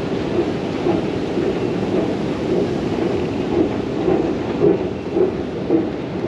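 A train running: a loud, steady low rumble with a soft, regular beat about twice a second.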